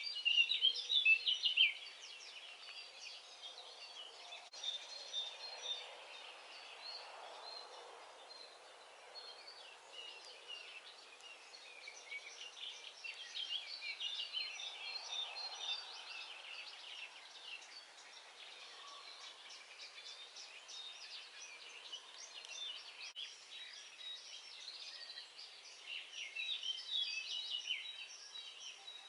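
Dawn chorus of several songbirds chirping and trilling, with the busiest, loudest bursts right at the start and again near the end.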